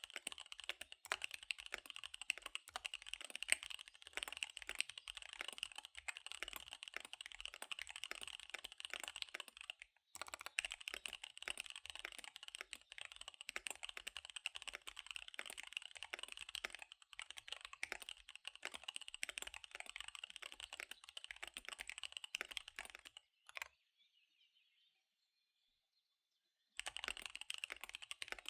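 Fast typing on a KBD75 V3 mechanical keyboard with SP-Star Dark Magic Girl tactile switches and DSA keycaps: a rapid, dense clatter of key presses. It breaks off briefly about ten seconds in, stops for about three seconds near the end, then starts again.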